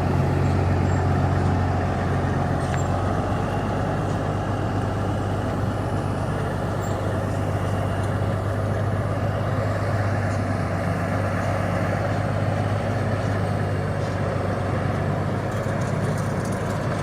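A 2004 Peterbilt truck's diesel engine running steadily with a low, even hum.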